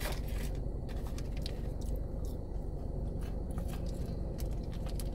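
Close-up chewing and mouth sounds of a person eating, with scattered soft wet clicks, over a steady low hum.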